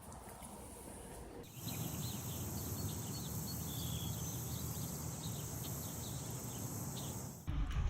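Outdoor ambience starting about a second and a half in: many short bird chirps over a steady high hiss, like insects.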